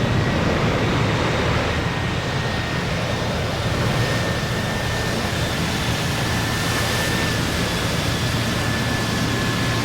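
Jet airliner's engines roaring steadily as the aircraft passes, with a thin high whine that slowly drops in pitch; the hiss in the roar grows from about four seconds in.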